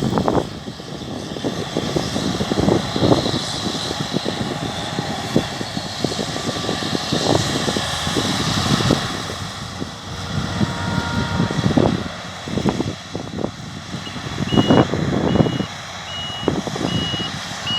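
Wind buffeting the microphone in irregular gusts over the steady running of farm machinery. About three-quarters of the way through, a vehicle's reversing alarm starts beeping at a steady pace, about one beep every 0.7 seconds.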